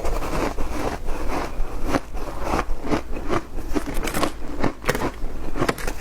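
Shaved ice being crunched and chewed in the mouth: a quick, uneven run of crisp crunches, about two or three a second.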